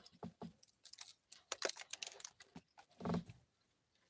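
Close-up eating sounds: a person biting into and chewing a cake, with a run of wet mouth clicks and lip-smacks and a short hum about three seconds in.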